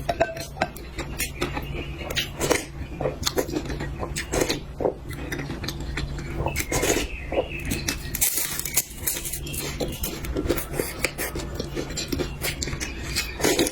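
Utensils clicking and clinking against bowls and plates while eating, in irregular sharp clicks, over a steady low hum.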